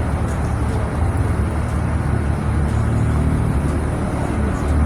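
Dump truck's diesel engine running steadily while driving, a continuous low rumble mixed with road noise.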